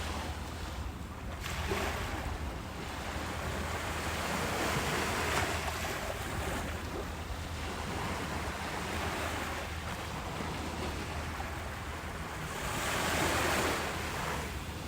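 Ocean waves washing onto a beach, swelling and ebbing in slow surges, with the largest swells about five seconds in and near the end, over a steady low rumble of wind.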